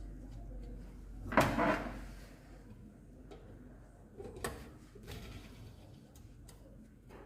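Metal engine parts and tools being handled during motorcycle engine reassembly: a loud clatter about a second and a half in, then a few lighter knocks and clicks.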